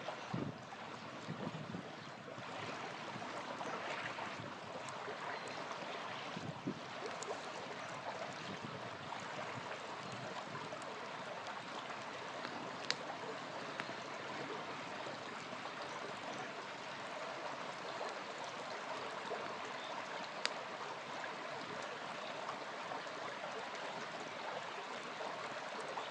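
Small river flowing steadily, with a few sharp pops and crackles from a campfire burning beside it.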